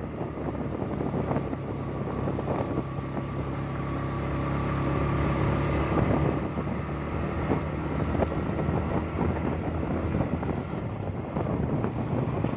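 Engine running steadily, with wind buffeting the microphone.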